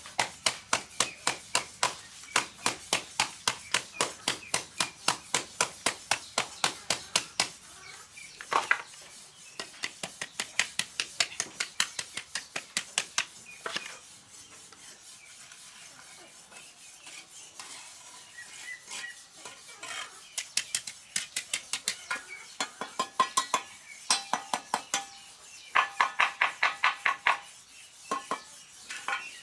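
Rapid, even hammer blows on metal, about four a second, in runs broken by short pauses, with some strikes ringing near the end.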